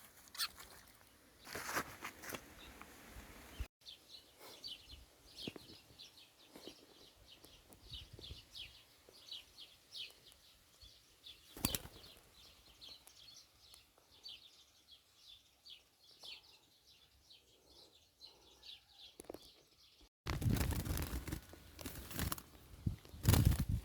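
Small birds chirping in quick, repeated short high notes, with wing flapping. Near the end a louder stretch of rustling and knocks comes in.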